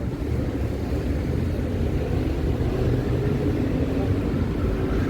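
Steady low rumble of wind buffeting the microphone, mixed with city street traffic.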